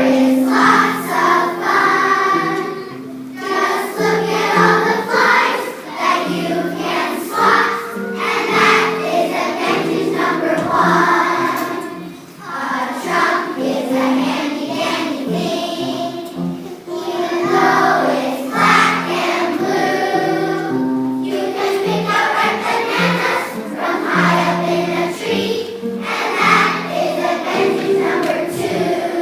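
A group of children singing together in unison, a song in sung phrases with short breaks between them.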